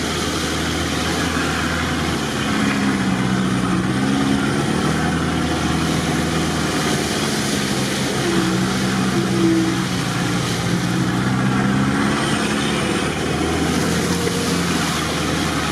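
Engine of an off-road 4x4 heard from inside its cabin, pulling steadily through mud, its pitch rising and falling a little as the revs change.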